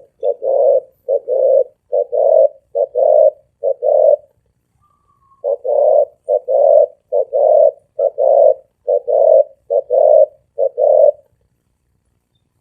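Spotted dove cooing in a deep, ringing voice: a run of paired coos, a pause of about a second, then a second run that stops about 11 seconds in.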